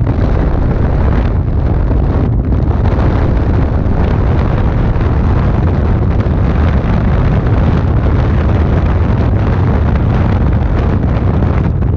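Loud, steady low rumble of wind buffeting the microphone and road noise in a moving car.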